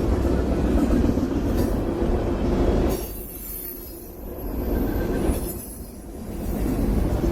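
Freight train passing close by, its cars and wheels rumbling on the rails. The sound drops away for a few seconds about three seconds in, then comes back at full level.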